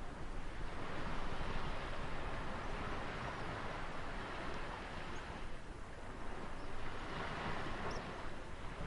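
Ocean waves washing onto a shore, a steady rushing that swells about a second in, eases, and swells again near the end.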